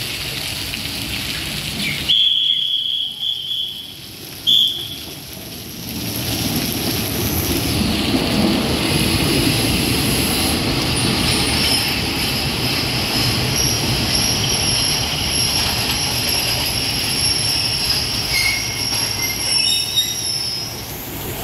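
Rain hiss at first. About two seconds in come two high-pitched toots, a long one and a short one. Then a diesel railcar passenger train rolls in alongside the platform, rumbling, with steady high wheel and brake squeals that change pitch near the end as it slows to a stop.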